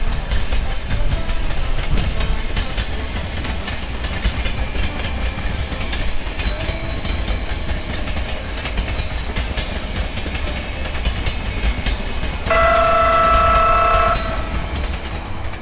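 Train sound effect: a train running along the rails with a steady rumble and clatter. Near the end comes a single locomotive horn blast lasting about a second and a half.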